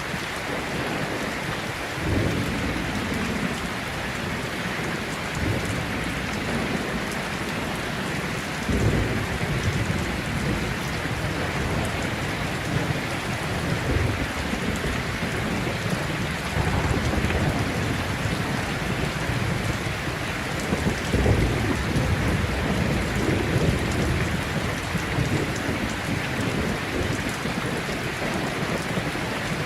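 Heavy rain falling steadily, with repeated rumbles of thunder swelling up several times, the strongest about two-thirds of the way through.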